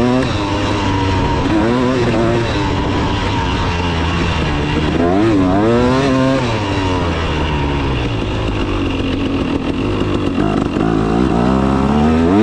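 KTM 300 two-stroke dirt bike engine revving up and down under riding, its pitch rising and falling with the throttle, with a clear rev up and back down about five to six seconds in and another climb near the end.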